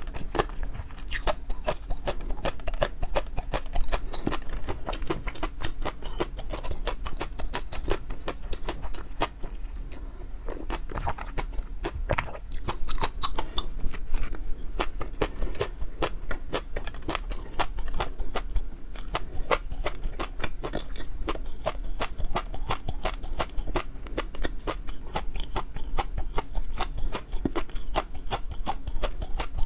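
Close-miked mouth sounds of a person chewing food: a dense, irregular run of wet clicks and smacks, over a low steady hum.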